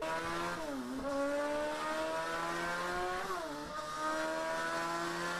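Car engine accelerating through the gears: its pitch climbs steadily, drops briefly at a gear change about a second in and again about three and a half seconds in, then climbs again.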